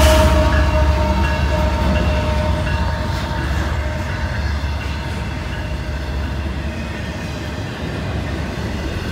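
CSX freight train rolling past: the steady rumble and rattle of boxcars and intermodal container cars on the rails. It is loudest at first and grows gradually quieter as the locomotives pull away.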